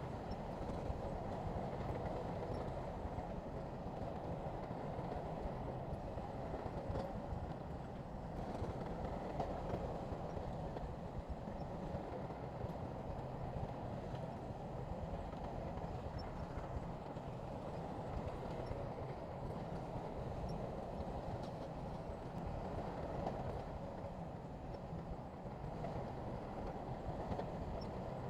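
Heavy earthmoving machinery running steadily: a diesel engine working with no pauses or changes in pace.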